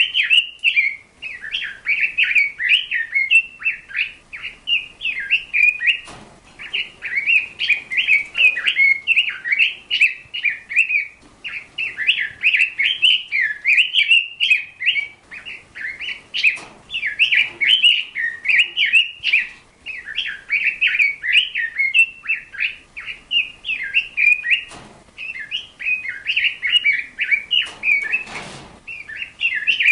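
A bird chirping and warbling in quick, busy phrases almost without pause, with a few faint knocks in the background.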